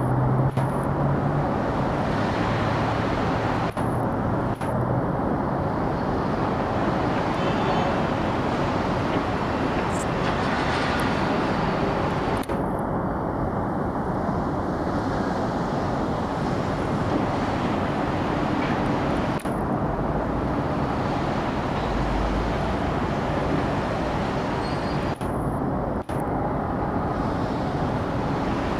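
Steady city traffic noise from vehicles on nearby roads, with a few brief drops where the sound changes abruptly.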